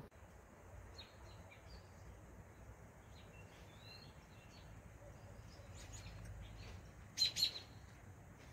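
Small birds chirping faintly, with short scattered calls and a louder run of sharp chirps about seven seconds in.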